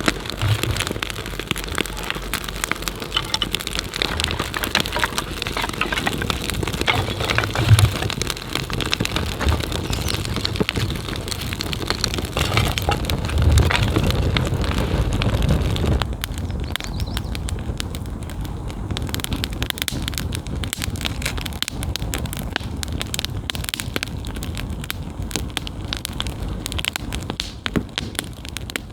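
Small campfire of hardwood kindling crackling, with dense irregular pops and snaps; the hiss above them thins out about halfway through.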